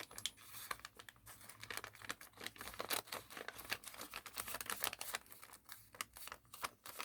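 Thin origami paper rustling and crinkling in short scattered crackles as a light reference crease is folded into it.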